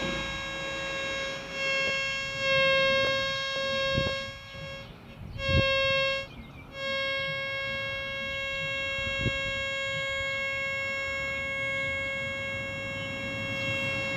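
Detectron 7T metal detector sounding a steady, buzzy single-pitch tone that swells and fades and cuts out briefly twice near the middle, with a few light knocks. It sounds almost continuously, which is the detector signalling metal under the coil.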